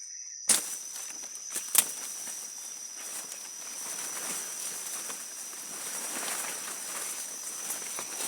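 Footsteps rustling and crunching through forest-floor leaf litter and undergrowth, with two sharp cracks about half a second and just under two seconds in. A steady high-pitched insect drone, crickets or cicadas, runs underneath.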